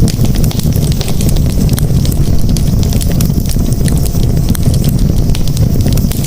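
Campfire crackling, with many small sharp pops over a steady low rumble.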